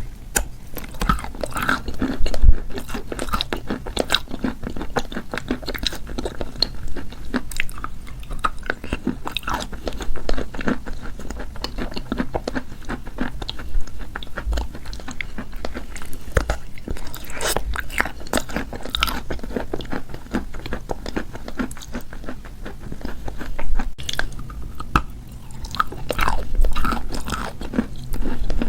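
Close-up biting and chewing of wet edible chalk coated with paste: a continuous run of soft, crackly crunches, with a few louder bites.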